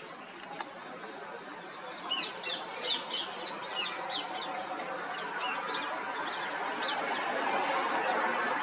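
Small birds chirping in quick runs of short, high, downward-sliding notes, thickest in the first half, over a steady rushing background that grows louder toward the end.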